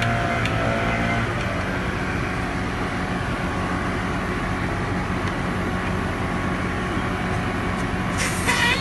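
American Standard R-410A outdoor air-conditioning condenser running: a steady low hum from the compressor under the even rush of the condenser fan. A brief, loud, high-pitched sound comes near the end.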